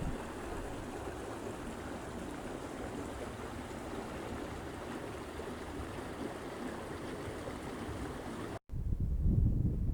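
Steady rush of flowing river water. Near the end it cuts off suddenly and gives way to a low rumble of wind on the microphone.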